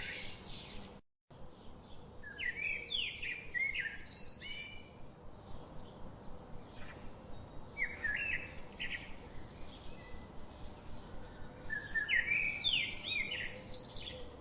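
A songbird singing short, quick phrases of chirps and whistles, heard three or four times, over a steady outdoor background hiss. The sound cuts out completely for a moment about a second in.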